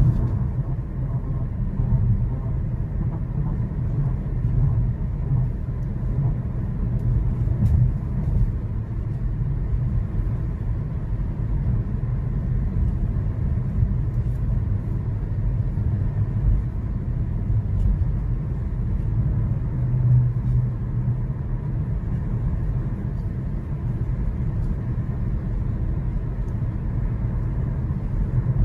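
Steady low rumble of road and engine noise inside the cabin of a Genesis GV80 with the 3.0-litre inline-six diesel, cruising at highway speed.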